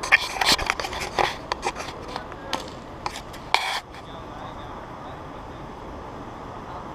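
Airsoft guns firing during a close-quarters exchange: a rapid string of sharp cracks in the first couple of seconds, a few scattered shots after, and a short hissing burst a little before four seconds in.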